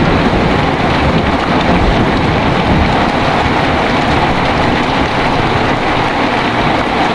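Heavy rain falling steadily in a dense, even downpour, with a low rumble of thunder underneath.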